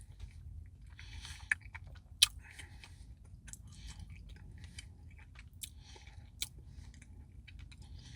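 Close-up chewing and mouth sounds of someone eating a Dairy Queen chocolate brownie Blizzard, soft and repeated every second or so, with a few sharp clicks.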